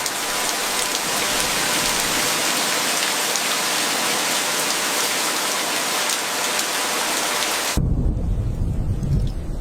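Heavy rain falling in a steady, dense hiss. It cuts off suddenly about eight seconds in and gives way to a low rumble.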